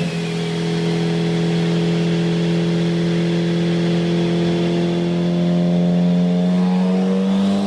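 Car engine running at high revs, its pitch climbing slowly and steadily, as under a long pull through one gear, before cutting off abruptly at the end.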